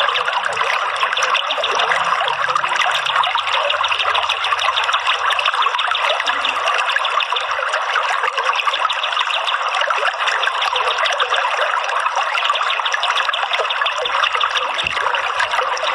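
Water trickling and running steadily, a continuous even flow with no breaks.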